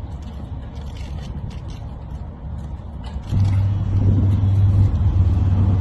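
A vehicle engine running over a low rumble; about three seconds in a steady, louder engine hum comes in and holds.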